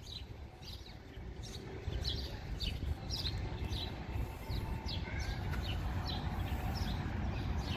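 A small bird chirping over and over, short high chirps that each drop in pitch, coming a few times a second, over a steady low rumble.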